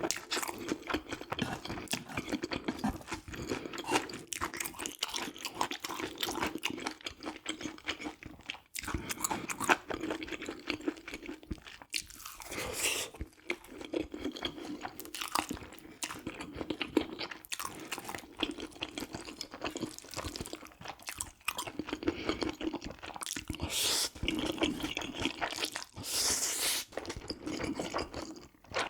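Close-miked eating: steady chewing with crunchy bites, the mouth noises coming in quick runs with brief pauses.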